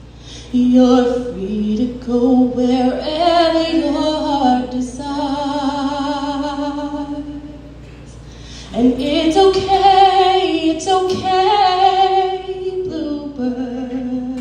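A solo voice singing unaccompanied, in two long phrases of held notes with sliding runs between pitches, dropping to a softer sustained tone near the end.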